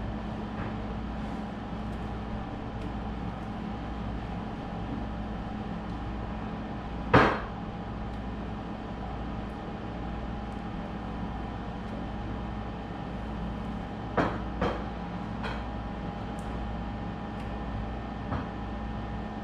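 A steady low hum with a few sharp knocks over it: one loud knock about seven seconds in, a quick pair a few seconds later, and a couple of fainter ones near the end.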